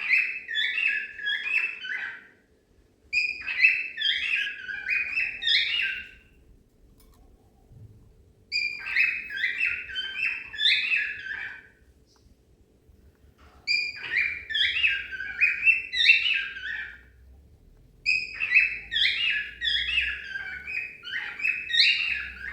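Cockatiel singing: a warbling, whistled phrase of quick notes, given five times in a row with short pauses between.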